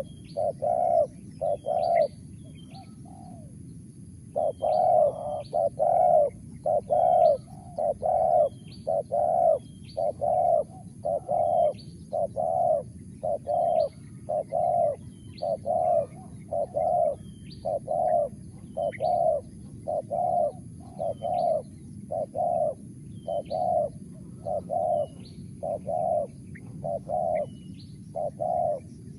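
Spotted dove (tekukur) cooing over and over in short phrases of a few notes, about one phrase every two seconds, with a brief pause a few seconds in. The voice is the kind Indonesian keepers call 'mersik', meaning crisp. Small birds give short high chirps in the background.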